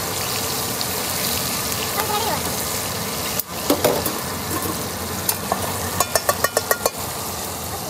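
Chicken pieces and whole tomatoes sizzling in hot oil in a steel karahi: a steady frying hiss. Near the end comes a quick run of sharp clicks, about eight in a second.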